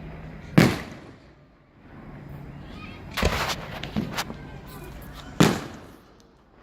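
Aerial fireworks bursting: three loud booms about two and a half seconds apart, each trailing off briefly, with a few smaller pops between the second and third.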